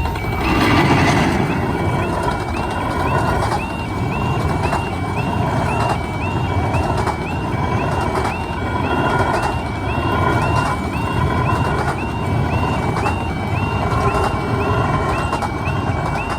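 Level crossing alarm sounding a repeating two-tone yelp while a train rumbles over the crossing, with rhythmic clicks from the wheels on the rail joints.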